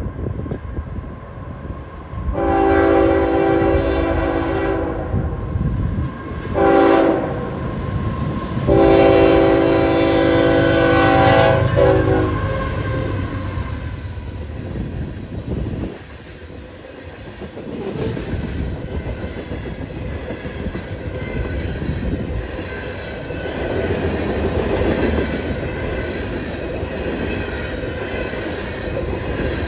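CSX locomotive 3073's multi-chime air horn sounding a salute in three blasts, long, short, long, followed by the train rolling past with a steady rumble and clickety-clack of its wheels on the rails.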